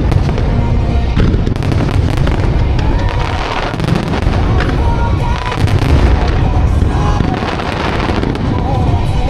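Firework shells bursting one after another with deep booms and crackling, over a pop song with singing.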